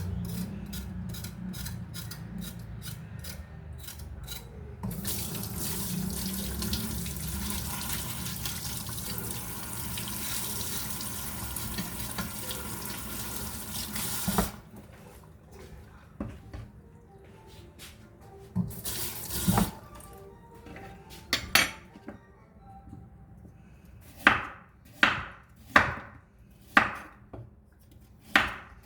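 Kitchen tap running water into a sink for about ten seconds, then shut off. Near the end, a knife strikes a cutting board about once a second.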